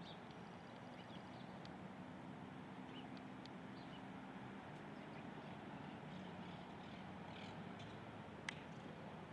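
Faint outdoor ambience: a steady hiss and low hum, with scattered short, faint, high bird chirps. A single sharp click comes near the end.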